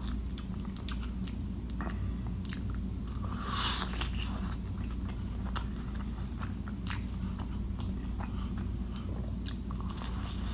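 Close-miked eating of pizza: mouth clicks and smacks while chewing, with biting and crunching of the crust, over a steady low hum.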